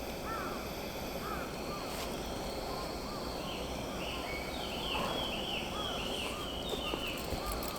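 Small wild birds calling: short arched chirps repeated in the first few seconds, then a quick run of high, falling notes from about three to seven seconds in, over a steady background hiss.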